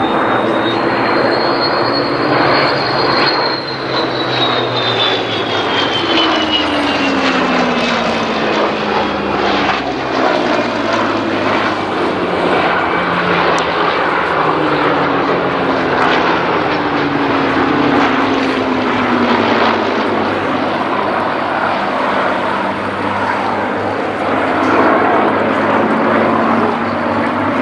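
Rolls-Royce Merlin piston engines of Supermarine Spitfires and Hawker Hurricanes flying past in formation. The engine note drops in pitch several times as aircraft pass.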